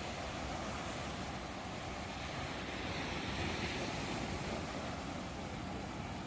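Ocean waves washing on a shore: a steady rushing, with one wave swelling a little louder about three seconds in.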